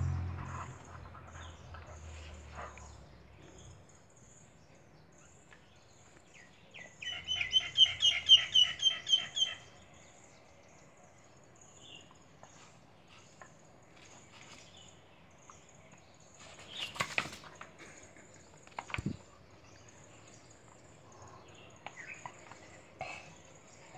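A bird calling in a quick run of about ten chirps for two or three seconds, over otherwise quiet surroundings with a few soft clicks; a low hum fades out in the first few seconds.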